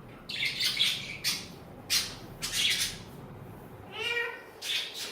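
Pet parrot squawking: a run of harsh screeches, then a rising, meow-like call about four seconds in and a last short squawk near the end.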